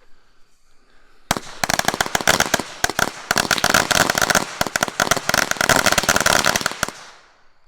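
A string of firecrackers going off, a rapid, dense crackle of sharp bangs that starts about a second in, runs for about five and a half seconds and then stops.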